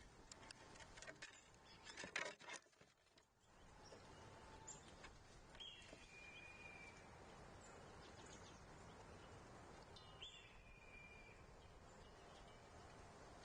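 Faint outdoor ambience with wild birds calling: a few short chirps and two drawn-out calls that fall slightly in pitch, one about halfway through and one later, over a steady low hiss. In the first few seconds a quick run of light taps and clicks, loudest about two seconds in.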